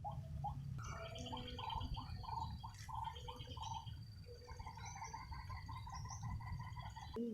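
Animal calls: a run of short, evenly repeated notes at about three a second, with buzzier higher notes and a steady thin high tone behind them, over a low rumble.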